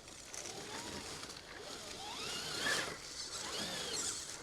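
Electric motor whine of small RC crawler trucks, rising and falling in pitch as the throttle is worked, with a louder rush of noise about two and a half seconds in.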